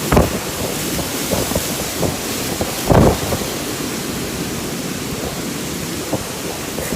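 Storm wind and rain: a steady loud hiss, broken by short low rumbling thumps of gusts, the strongest about three seconds in.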